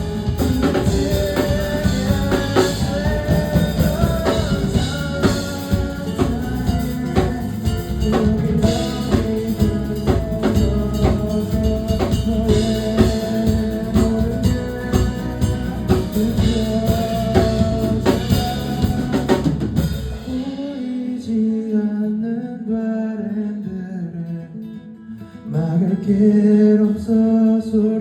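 A band playing a song, with drum kit and guitar. About two-thirds of the way through, the drums and low end drop out, leaving sustained guitar and melody notes that fade briefly and then swell back up near the end.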